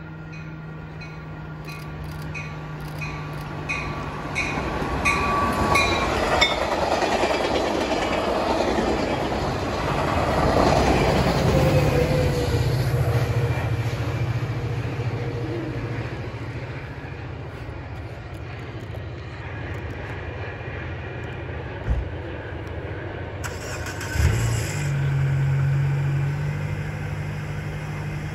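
A Caltrain diesel-hauled passenger train passes through the station at speed. Its engine drone and wheel-on-rail noise swell over several seconds, then fade as it goes by. Over the first few seconds there is a quick, evenly repeating ding.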